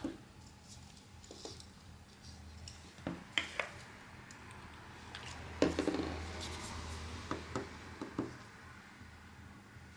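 Small hand tools handled during a phone repair: a scattering of sharp light clicks and taps, with a longer scraping rub a little past the middle.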